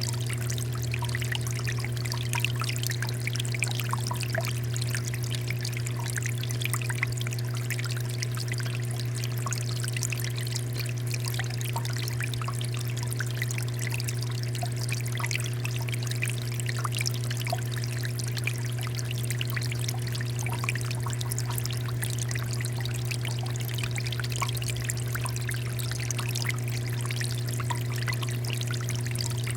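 Water fountain flowing steadily, many small droplet splashes over a constant low hum.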